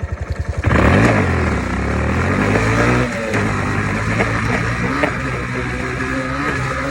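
Four-stroke Honda dirt bike engine ticking over, then the throttle opens sharply under a second in and it pulls away under load, running hard with a brief dip in revs about three seconds in.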